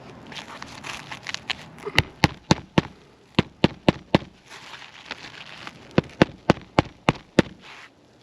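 Hammer driving roofing nails into an asphalt shingle roof: three quick runs of sharp strikes, four, then four, then six, about four a second, with scraping and rustling of shingles before the first run.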